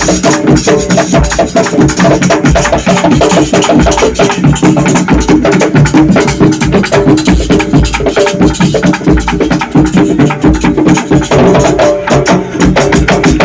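Live drum ensemble playing a fast, dense rhythm: rapid sharp strokes over regular deep bass drum beats, with a steady pitched backing underneath.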